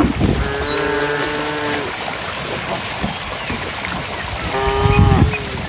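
Cattle mooing twice: a long, fairly high call starting about half a second in and lasting over a second, then a shorter one near the end, over the steady rush of river water.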